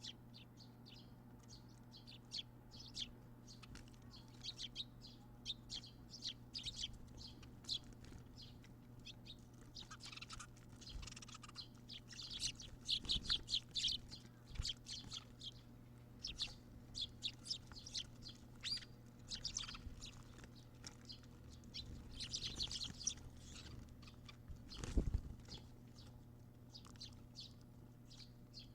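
Brown-eared bulbuls chirping: many short, high chirps, with quick runs of them around the middle and again near the end. A faint steady low hum runs underneath, and there is one dull thump about three-quarters of the way through.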